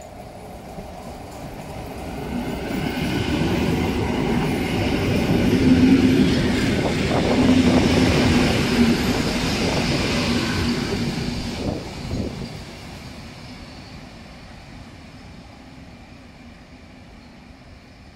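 EN57 electric multiple unit running past at close range. Its rumble swells over a few seconds, with a low steady hum and wheels clicking over rail joints, then fades away after about twelve seconds.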